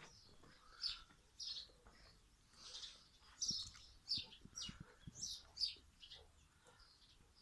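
Bird chirping: a series of short, high notes at irregular intervals.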